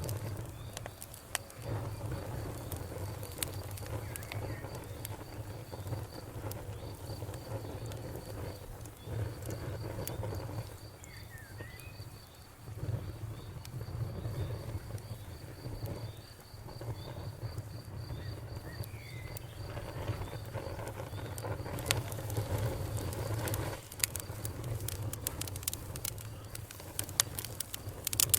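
Campfire crackling with scattered sharp pops that come thicker near the end, over a steady low rumble. A cricket chirps in a fast, even pulse behind it and stops about three-quarters of the way through.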